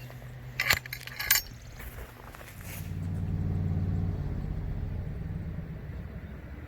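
Two short rattling clicks about a second in, then the low rumble of a passing vehicle that swells and fades away.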